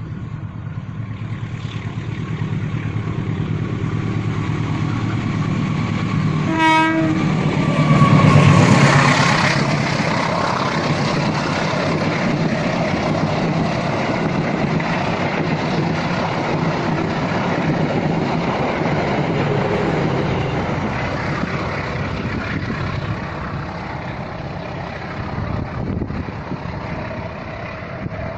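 A train passing: its horn gives one short blast about seven seconds in. Then the locomotive and coaches go by with a heavy rumble and rail noise, loudest just after the horn and easing off toward the end.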